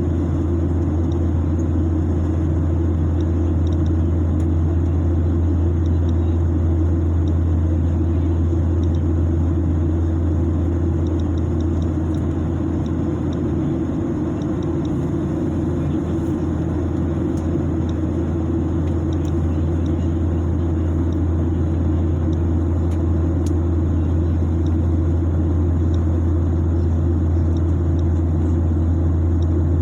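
Steady, unchanging low rumble of an aircraft's cabin noise in flight, with a few faint scattered high ticks over it.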